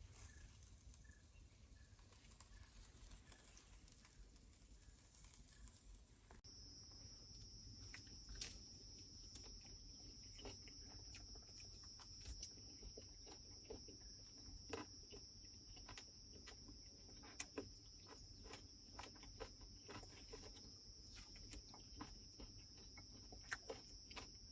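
Faint night-time ambience: a steady, high-pitched insect trill sets in abruptly about six seconds in, with scattered soft clicks throughout. Before it come faint repeated chirps, a few to the second.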